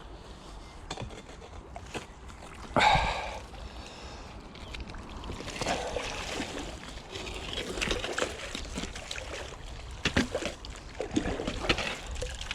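Water splashing, with one sharp splash about three seconds in, then a stretch of sloshing and dripping with scattered clicks.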